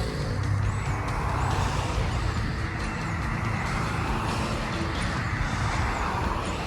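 Historic steam train running on the track: a steady rumble and hiss, with faint short high squeals repeating about every three-quarters of a second.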